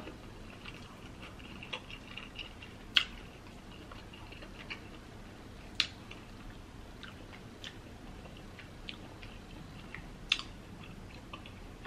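Soft close-up chewing and mouth sounds of someone eating king crab, with scattered light ticks and three sharp clicks spread a few seconds apart.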